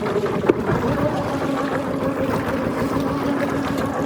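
A fishing boat's engine running steadily under wind and water noise. One sharp knock about half a second in.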